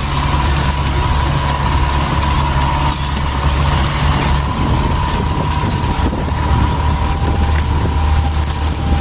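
Motor vehicle engine running at a steady speed with a low hum, an even road-like rush and a thin steady whine above it.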